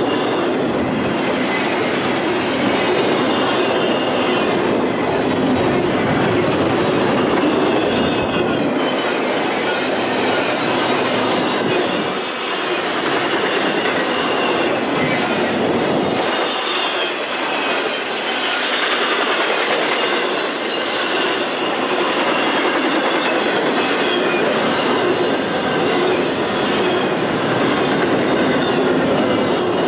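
Double-stack intermodal container train's well cars rolling past close by: a steady loud clatter and rumble of steel wheels on the rails, with a thin high wheel squeal coming and going.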